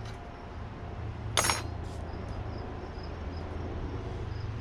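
A sharp metallic clink about a second and a half in, followed by a softer click, as a part is handled during the teardown of a tankless water heater, over a steady low hum.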